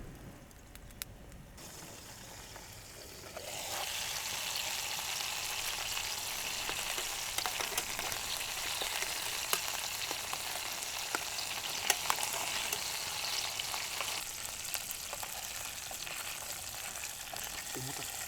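Food sizzling in a hot pan, starting a few seconds in as a steady hiss with scattered sharp pops, easing off a little near the end.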